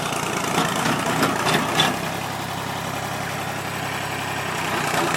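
Tractor engine idling steadily, with a few short rattles or knocks in the first two seconds.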